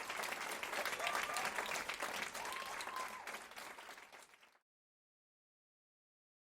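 Crowd applause, a dense patter of many hands clapping, fading out about four and a half seconds in and then cut to dead silence.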